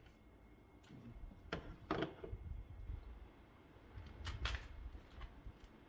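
A few faint clicks and knocks from handling parts during an oil change, over a low steady rumble.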